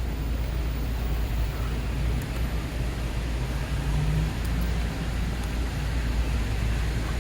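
Steady low rumble of motor vehicle noise with an even background hiss.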